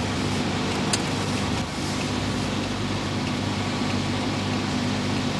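A motor vehicle's engine running steadily, a constant low hum under noise, with one short sharp click about a second in.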